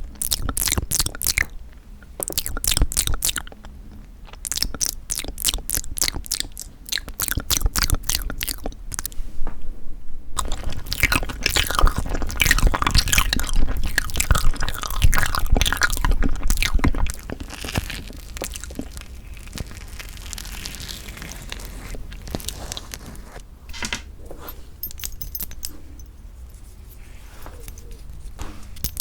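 Close-miked chewing of bean curd (tofu) tiramisu cake, in quick, regular mouth strokes. From about ten seconds in, the chewing grows denser and louder, then turns quieter and sparser after about seventeen seconds.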